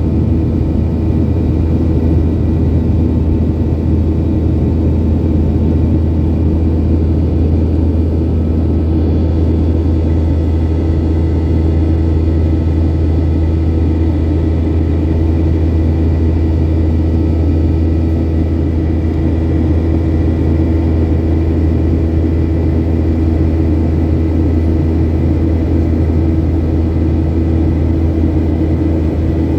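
Steady low cabin drone inside a Boeing 737-800, the engines and rushing air making an even rumble with a few faint steady hums over it.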